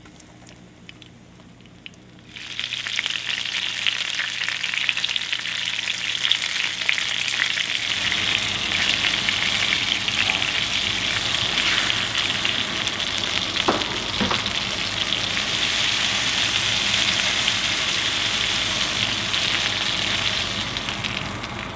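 Breaded walleye fillets sizzling and crackling hard in hot oil in a frying pan; the cook says the oil got too hot and scorched them a little. The sizzle comes in suddenly about two seconds in after a quiet start, with two light knocks a little past the middle.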